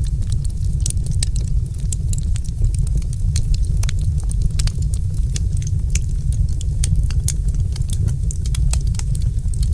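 Wood fire crackling in a fireplace: dense, irregular sharp snaps and pops over a steady low rumble.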